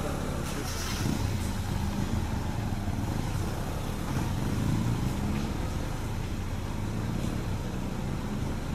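A motor vehicle's engine running steadily, a continuous low hum, with a few faint clicks.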